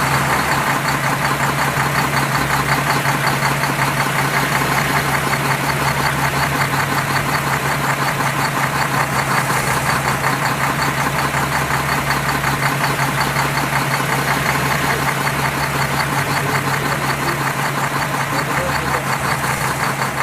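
An engine running steadily at idle with a fast, even knocking beat.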